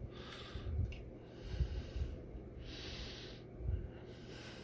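Breathy puffs of air close to the microphone, four of them about a second apart, with a few soft low thumps between them.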